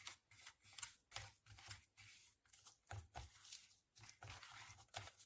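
Faint, irregular rustling and light tapping, two or three a second, of something being handled.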